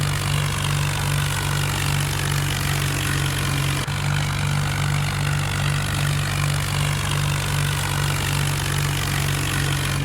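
Tractor diesel engine running at a steady speed, with a brief dip about four seconds in.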